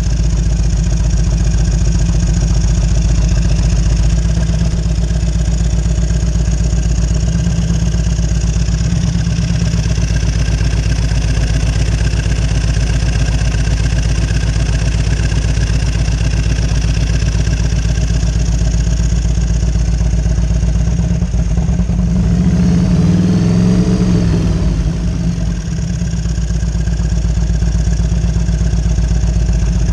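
1998 Harley-Davidson Road King Classic's fuel-injected Evolution V-twin idling steadily. About 22 seconds in, the revs rise and fall back once with no throttle blip: the unwanted self-revving idle surge that is the fault being chased.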